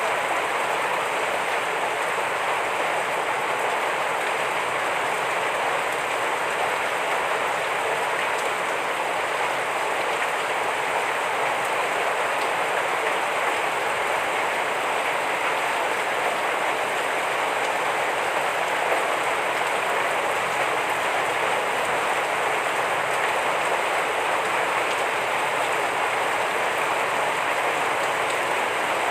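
Heavy rain falling steadily, an even hiss of dense drops with no letup.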